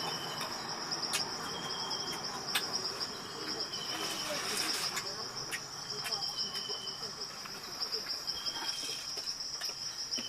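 Crickets trilling steadily in a high, fast pulsing note, with a shorter, lower chirp repeating every second or two. Scattered sharp clicks sound now and then.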